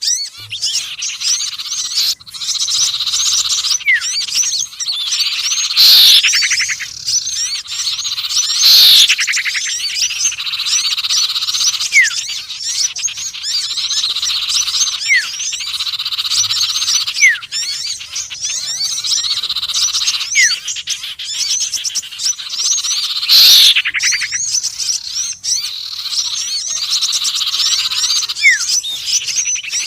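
Bird-lure recording mixing sirtu, konin and sepah raja calls: a dense, continuous high chattering trill with short whistled sweeps about every two seconds, and three louder falling calls about six, nine and twenty-three seconds in.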